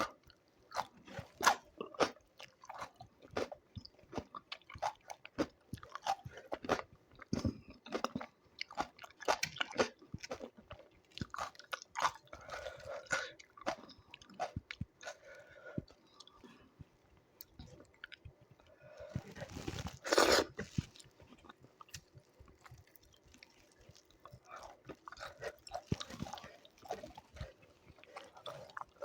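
A person eating close to the microphone: steady, irregular chewing and crunching with many small mouth clicks, and one louder crunchy burst about two-thirds of the way through.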